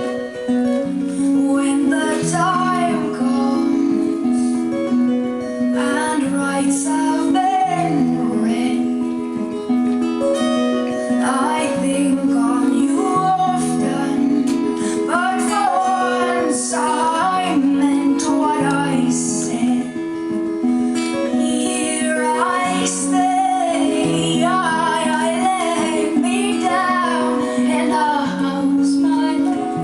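A woman singing a slow song over a plucked and strummed acoustic guitar. The accompaniment repeats a low figure about every five seconds.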